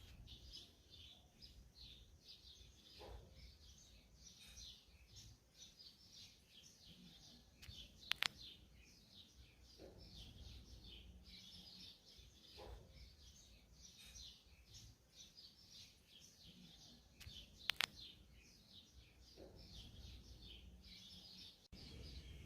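Small birds chirping in a continuous, rapid, high-pitched chatter. Two sharp clicks cut through it partway along.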